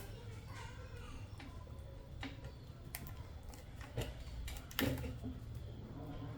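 A few separate light clicks and knocks from small hard objects being handled, the loudest near the end, over a low steady hum.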